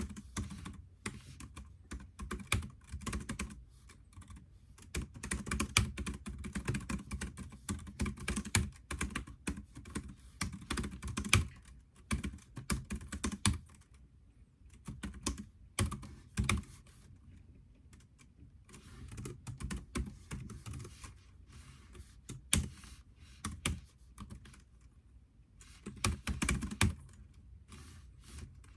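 Typing on a computer keyboard: quick runs of key clicks in bursts, broken by short pauses, with an occasional louder keystroke.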